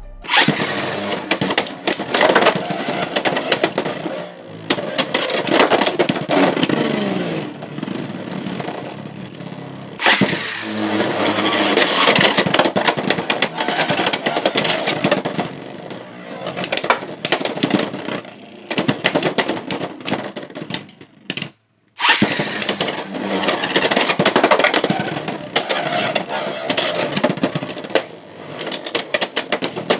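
Beyblade X spinning tops launched into a plastic stadium, spinning and clashing with rapid clicking and scraping hits, a whirr that falls in pitch as they slow. Three rounds: the sound cuts off and starts afresh about ten seconds in and again after a brief silence near the two-thirds mark.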